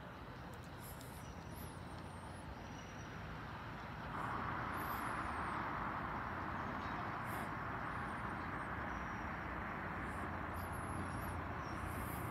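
Diesel-hauled passenger train approaching slowly: a low engine rumble that grows a little louder near the end, with a steady rushing noise that comes up about four seconds in. Small birds chirp now and then.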